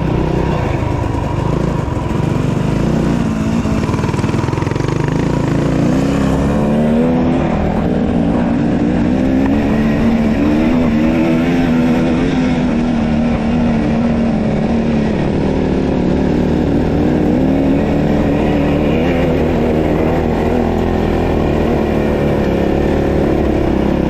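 Dirt bike engine running with the throttle worked on and off, its pitch rising and falling.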